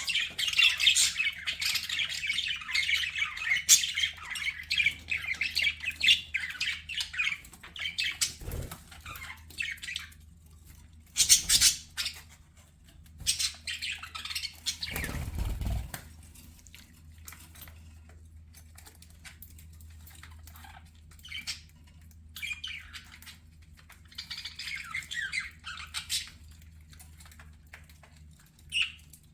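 Budgerigars chattering and warbling, densest over the first several seconds and then in scattered bouts, with three short louder bursts of noise around the middle that sound like wing flaps or movement.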